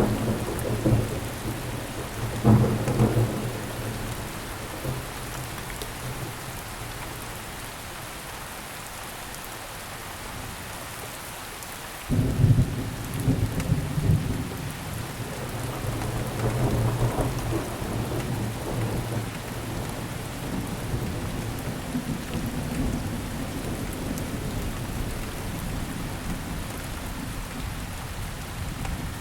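Steady rain with rolling thunder. There are low rumbles at the start and about two and a half seconds in. About twelve seconds in a sudden, louder peal sets off, rolling on for several seconds before fading back under the rain.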